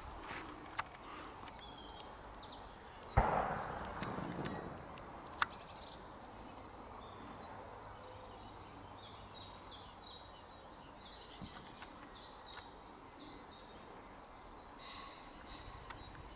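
Songbirds singing in quick, high chirping phrases, with a single knock and a short rustle about three seconds in.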